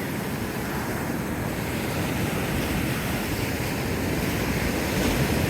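Ocean surf washing onto the beach: a steady wash of noise that swells slightly near the end, with some wind rumbling on the microphone.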